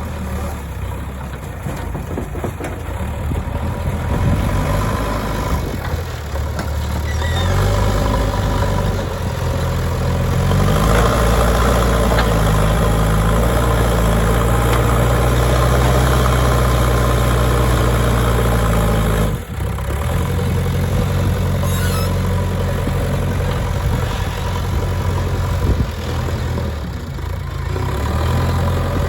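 Diesel engine of a JCB 3DX backhoe loader running under work load. It revs up about a third of the way in and holds higher for about ten seconds, drops briefly and suddenly, then runs on more steadily.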